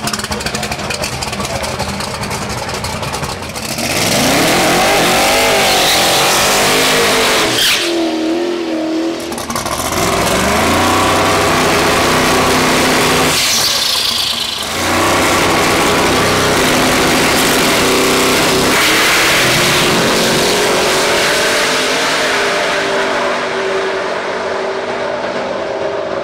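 Twin-turbocharged big-block V8 of a drag-race 1957 Chevy running hard, revving and accelerating, with the pitch climbing and falling and a few abrupt breaks, then running steadier near the end.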